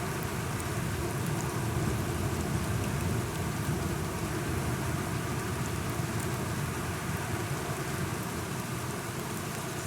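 Steady rain falling, with a low rumble running underneath.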